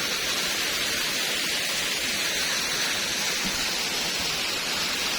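Steady rushing of falling water from a jungle waterfall, an even hiss with no breaks.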